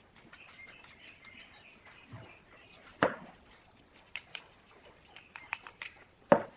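Light clicks and ticks of hand work, with two sharp knocks, about three seconds apart, standing out loudest; faint chirping sounds in the first second or so.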